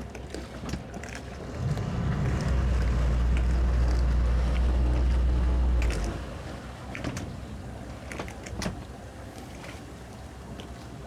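Towboat's twin 200 hp Suzuki outboards running low, rising to a louder steady drone for about four seconds from about two seconds in, then dropping back. Scattered light knocks throughout.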